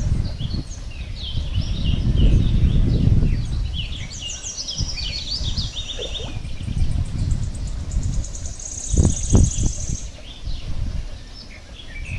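Several birds chirping and trilling over one another, with a fast, high trill near the end. Beneath them runs a low rumbling noise that swells a couple of seconds in, and there are a few low knocks about nine seconds in.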